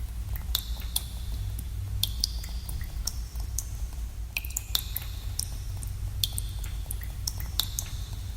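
Water drops dripping in a cave, falling at irregular moments several times a second, each a sharp plink with a brief ringing tone. Beneath them runs a steady low rumble.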